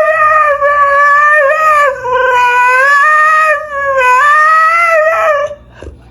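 Dog howling in long, drawn-out, song-like notes: three sustained howls with small wavers in pitch.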